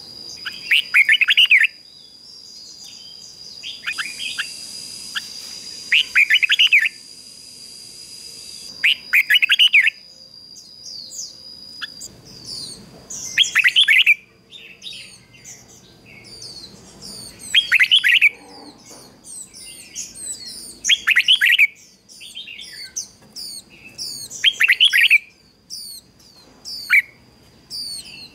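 Red-whiskered bulbul singing, loud short song phrases repeated every few seconds, with softer chirps in between.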